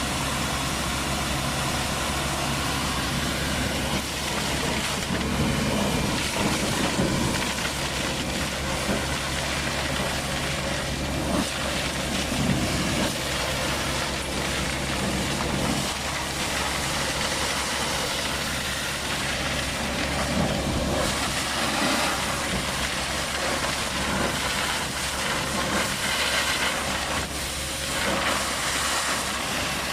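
MTS vacuum excavator running: a steady engine and blower drone under a loud rush of air, the hiss swelling now and then.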